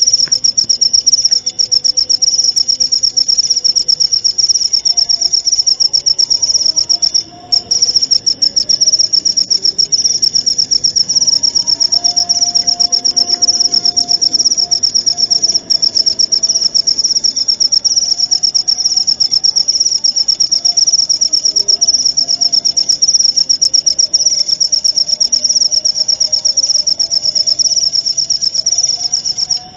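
Cricket chirping steadily: a loud, high-pitched, rapidly pulsing trill with a brief break about seven seconds in, cutting off suddenly at the very end. Fainter, lower calls waver underneath.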